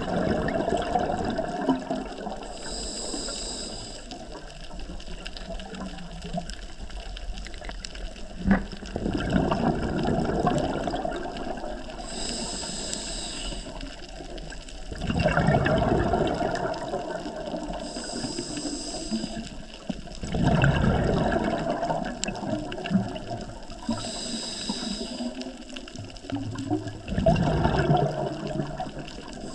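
Scuba diver breathing through a regulator underwater. Short hissing inhalations alternate with louder rumbling bursts of exhaled bubbles, about five breaths spaced some six seconds apart.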